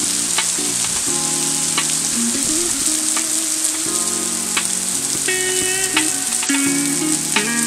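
Heavy rain pouring down, a steady loud hiss, with music playing underneath as a run of changing notes.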